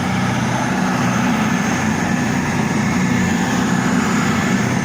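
Class 221 Voyager diesel-electric multiple unit's underfloor Cummins diesel engines running with a steady low drone.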